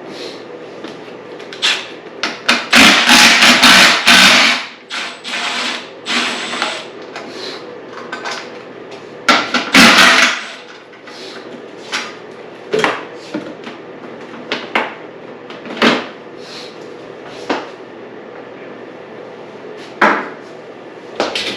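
Hand tools and loose bolts clinking and knocking against the bike as its bolts are undone, with two louder rattling stretches among the scattered knocks.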